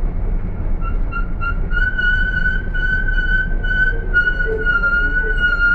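Minibus brake pads squealing as it brakes: a high, steady whistle that comes in about a second in, stutters briefly, then holds, over a low street and engine rumble.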